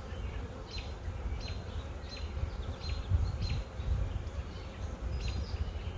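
Honey bees buzzing around an opened hive as its frames are inspected.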